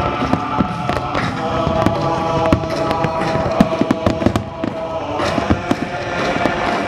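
Fireworks bursting in rapid, irregular succession, many sharp bangs and cracks overlapping, over music with steady held notes.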